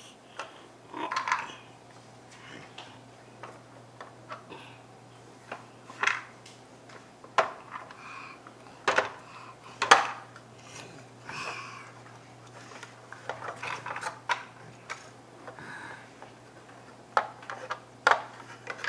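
Toy construction trucks being handled and knocked about: irregular clacks, knocks and short scrapes, a dozen or so. A faint steady low hum runs underneath.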